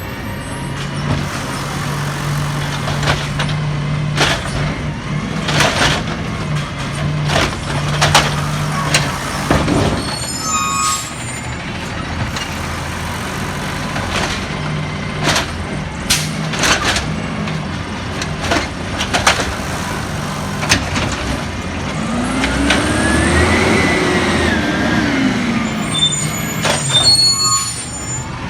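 Peterbilt 320 garbage truck running, with a steady engine note broken by many short bangs and hisses. Near the end its engine pitch rises and falls once over about four seconds.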